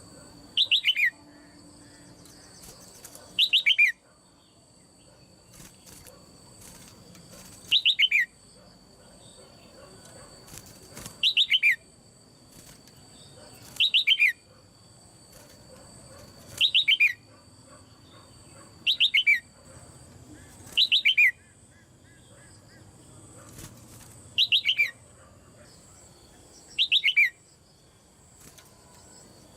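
Red-whiskered bulbul, a caged female, calling over and over: about ten short, loud calls, each a quick falling run of notes, every two to three seconds.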